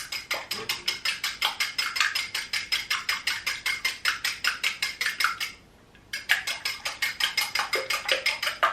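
An egg being beaten by hand: a metal utensil clinks rapidly and evenly against the side of its container, about six strokes a second. The beating pauses briefly a little past halfway, then resumes.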